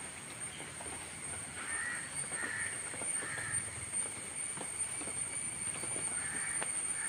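Outdoor ambience: a bird gives two runs of three short calls, one starting about two seconds in and another near the end, over a steady high-pitched whine and scattered faint clicks.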